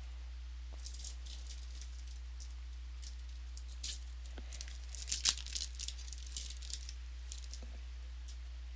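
Crinkling and crackling of a foil trading-card pack wrapper being handled and torn open, in irregular bursts that are loudest about five seconds in, over a steady low electrical hum.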